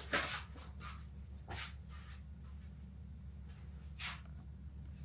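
Oily work gloves being pulled off the hands: a few short rustling swishes, the strongest right at the start and another about four seconds in, over a steady low hum.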